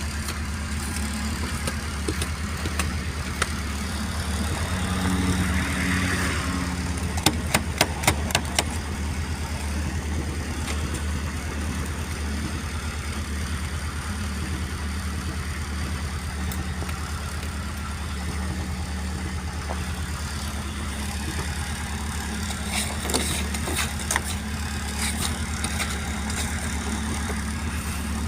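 GAZelle van's engine idling steadily, with clusters of sharp clicks and knocks about seven seconds in and again a few seconds before the end, typical of snow and ice being swept off the frozen glass and wipers.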